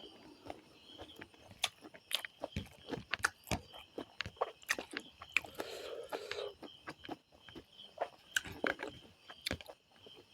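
A person chewing and crunching food close to the microphone: irregular sharp crunches, several a second.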